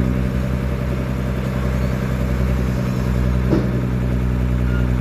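Truck engine idling steadily, with a short knock about three and a half seconds in.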